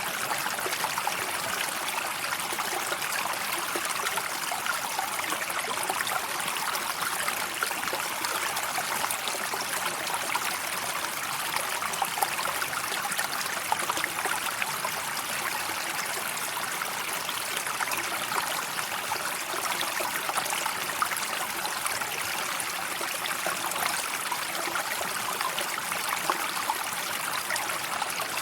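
River water flowing steadily, a continuous even rush of moving water with no breaks.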